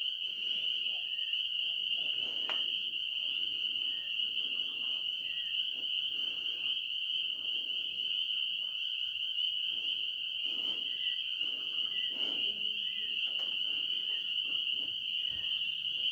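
Nighttime chorus of calling frogs and insects: a steady high trill with scattered short chirps over it, and a few soft low thumps.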